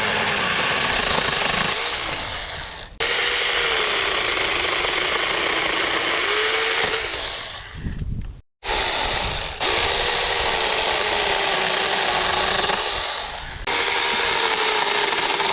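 Cordless electric mini chainsaw running in several runs that start and stop abruptly, its motor whine dipping in pitch and recovering, as it does when the chain is loaded in wood.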